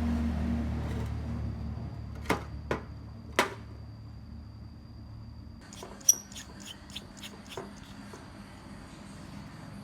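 Small hard objects being handled: three sharp clicks, then a quicker run of lighter ticks and taps, over a faint steady high-pitched whine.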